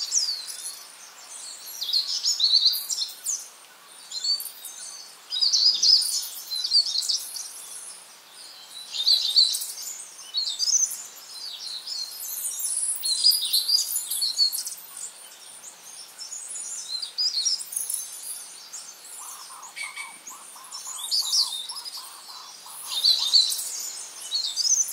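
Songbirds chirping and singing in short high phrases every few seconds. A run of lower, evenly repeated notes joins for a few seconds near the end.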